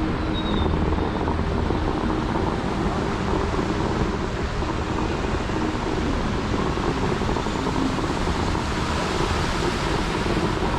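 Bellagio fountain jets spraying and crashing back into the lake, a steady rush of water.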